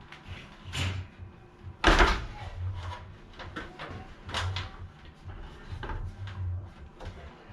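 Knocks and clunks of a heavy electric motor being carried across metal wire shelving and onto a ladder, with one loud thump about two seconds in.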